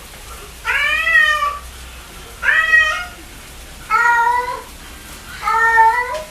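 A cat meowing four times in a row. Each meow is under a second long, with roughly a second of quiet between them.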